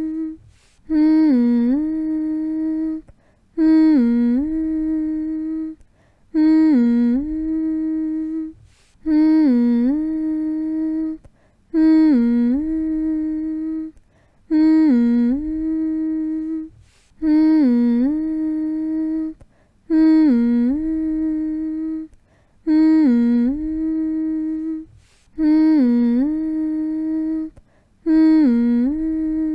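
A voice humming the same short phrase over and over, about every two and a half seconds with a brief pause between. Each phrase dips in pitch, then holds one steady note. It is a repeated humming sound used to soothe a baby to sleep.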